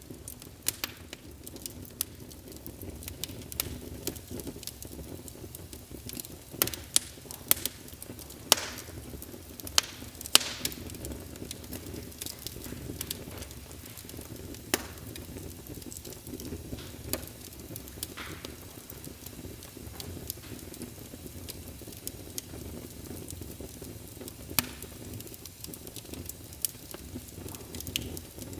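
Fireplace sound emulator playing a crackling wood fire: a steady low rumble of flames with scattered sharp pops and crackles, most frequent about a quarter of the way in.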